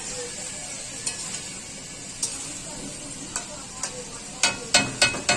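Chicken curry sizzling as it is fried down in a pan and stirred, with a steady frying hiss, a few light spoon clicks, and a quick run of loud spoon knocks against the pan near the end.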